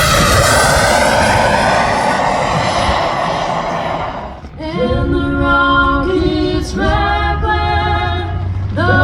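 An airplane passes by, its engine pitch falling as it goes past, and fades out about four and a half seconds in. Singing follows, with long held notes.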